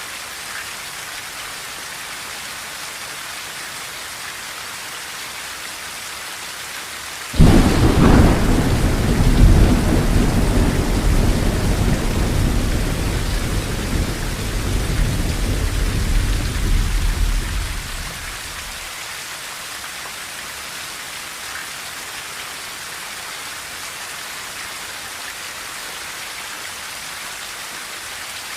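Steady rain on a tin roof, with a thunderclap about seven seconds in that cracks sharply and then rumbles low for about ten seconds before fading away.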